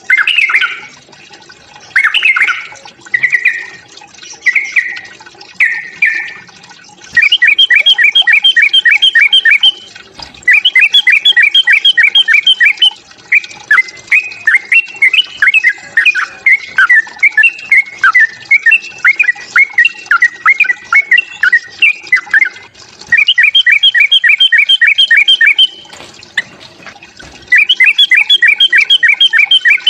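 Yellow-vented bulbul (trucukan) giving loud fighting calls: first short bubbly phrases about once a second, then long runs of fast repeated notes and a stretch of warbling chatter, with brief pauses between runs.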